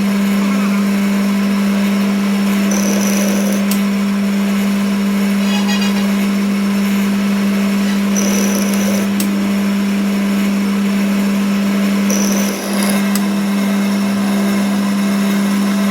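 A workshop machine running with a loud, steady hum, joined three times by a short high-pitched squeal.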